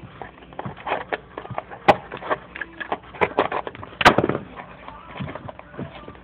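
Cardboard being handled and worked: irregular crackles and clicks, with two sharper, louder snaps about two and four seconds in.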